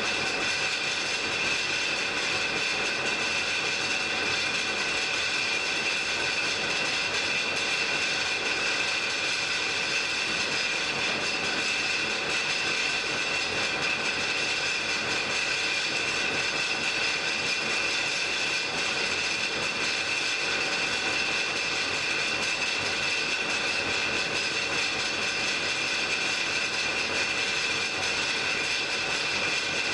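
Blacksmith's forge fire burning with a steady rushing roar of air, with a faint constant high whine through it.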